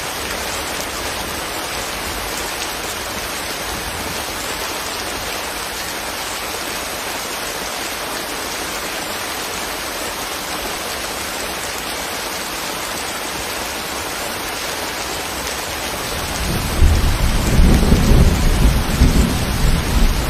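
Steady rain falling, an even hiss of drops. About sixteen seconds in, a loud low rumble sets in beneath it and keeps going.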